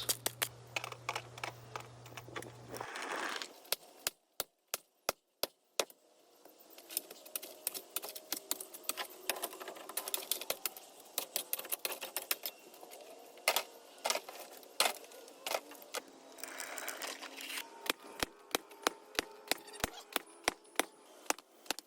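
Sledgehammer blows breaking up a concrete sidewalk: a long run of sharp, irregular strikes, roughly one or two a second, with a few single strikes standing out in near silence about four to six seconds in.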